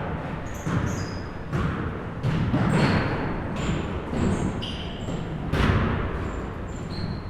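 Basketball bouncing on a gym floor: several irregular thuds in a large, echoing hall, with short high squeaks scattered between them.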